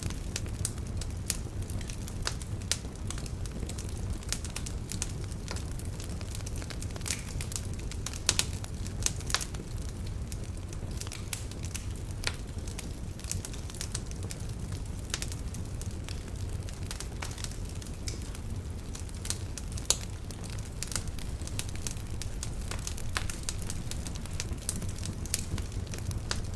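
Wood fire burning in a fireplace: a steady low rumble of flames with many irregular sharp crackles and pops from the logs, a few louder pops scattered through.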